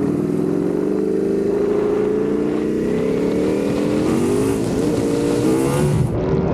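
Ducati Panigale V4 motorcycle's V4 engine pulling under acceleration, its pitch rising steadily for about four seconds, then stepping through a few quick changes near the end as the revs shift with the gear changes.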